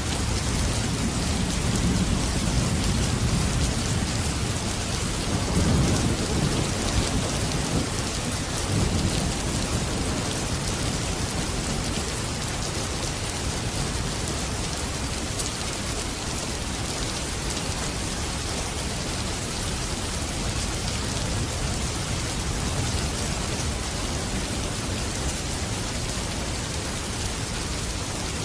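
Steady heavy rainfall hissing on surfaces, with low rolling thunder rumbling through the first third and fading away, leaving an even downpour.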